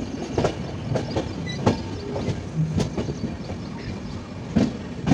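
Passenger train running, its wheels rumbling and clacking irregularly over rail joints, heard from aboard as it nears a station.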